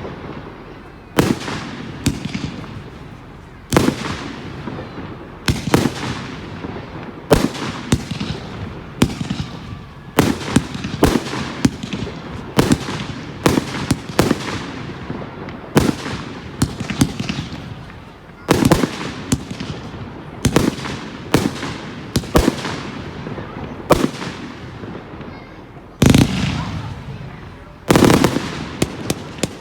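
Fireworks bursting in quick succession, a sharp bang every second or so with crackling clusters between, each bang trailing off in a fading echo.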